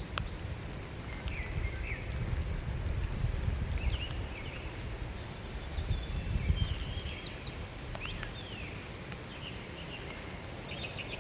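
Small birds chirping in short, scattered calls, over a low rumble that eases off after about seven seconds.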